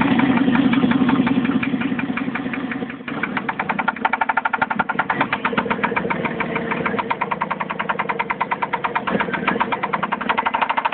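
Jeep 4.7L V8 engine running with a fast, even knocking from the front of the engine on the passenger side, near the oil fill port, which the owner suspects is timing chain slap. A deeper hum under it drops away about three seconds in.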